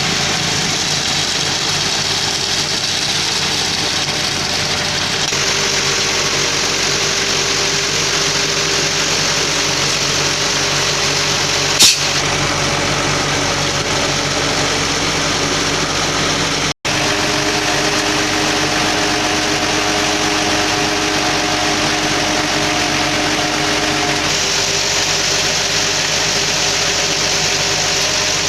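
Diesel engine of a Hino concrete mixer truck running steadily, with a single sharp click about twelve seconds in.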